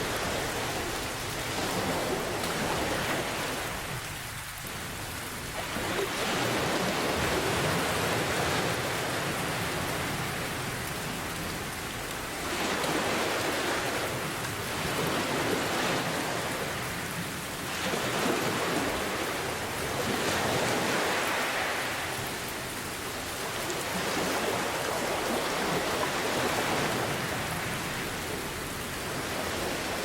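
Steady rain hissing, with ocean waves surging and easing every four to five seconds.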